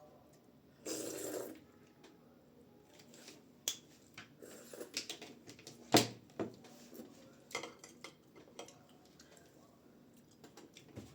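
Close-up eating sounds: a short slurp about a second in, then scattered wet mouth clicks and chewing noises, with one sharp click near the middle the loudest.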